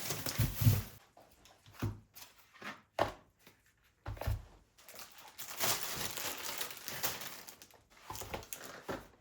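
Plastic or paper packaging crinkling as it is handled, broken by a few soft knocks and a longer stretch of rustling in the second half.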